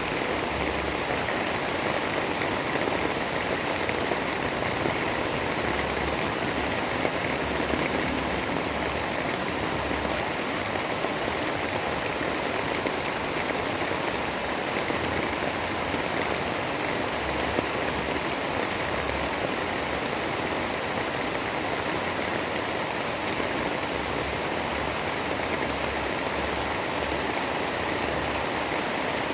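Steady storm ambience: a dense, even rain-like hiss with no breaks or distinct events.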